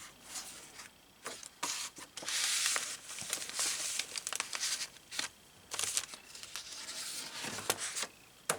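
Paper rustling and crinkling as the pages and tucked-in paper pieces of a handmade ring-bound journal are handled and turned, in irregular spells with a few sharp clicks.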